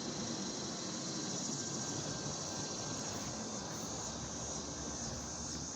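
Steady insect chorus, a continuous high trilling, over a low steady hum.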